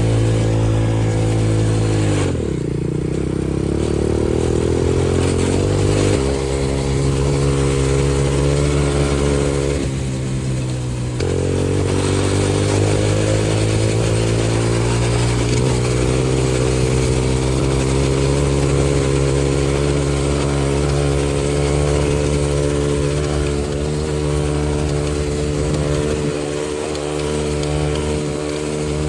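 XPro 125cc dirt bike's single-cylinder engine running while ridden. Its pitch falls sharply about two seconds in and climbs back, steps abruptly around six and again around eleven seconds in, then holds steady.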